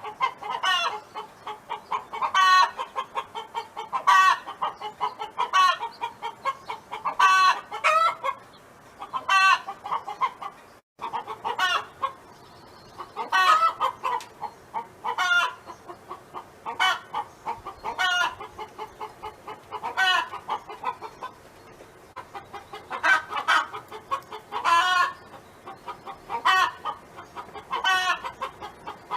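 Domestic hens clucking, with short repeated calls coming in quick runs throughout. The sound cuts out to silence for a moment about eleven seconds in.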